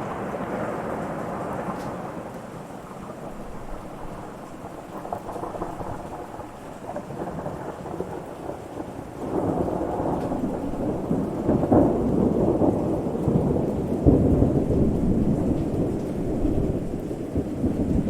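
Thunder rumbling over steady rain: one low rumble dies away over the first few seconds, and another builds about nine seconds in and is loudest around fourteen seconds.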